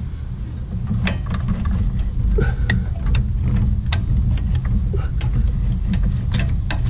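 A motor-driven lift running steadily with a low rumble that builds in level, raising the mower, with scattered clicks and knocks of metal parts.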